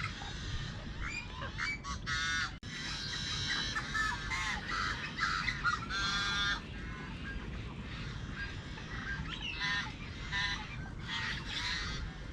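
Birds at a marsh calling over one another, a busy run of short, repeated, overlapping calls with no break.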